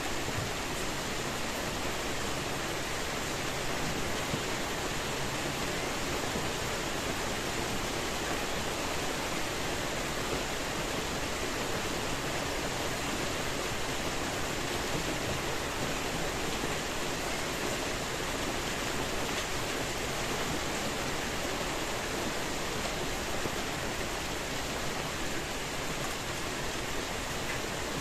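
Steady rainfall, an even hiss of falling rain with no single drops standing out.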